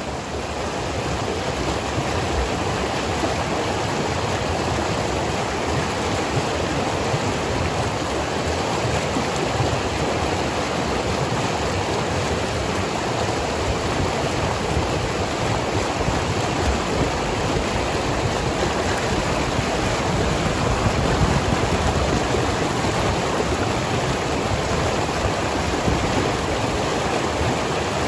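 Fast river water rushing steadily through rocky pocket water.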